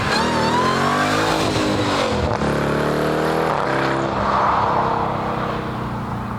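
A car accelerating hard past, its engine pitch climbing, dropping sharply at a gear change a little over two seconds in, then climbing again before easing off and fading slightly near the end.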